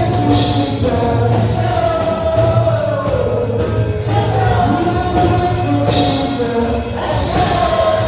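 Gospel praise music: singing voices carrying a gliding melody over a band with a steady bass.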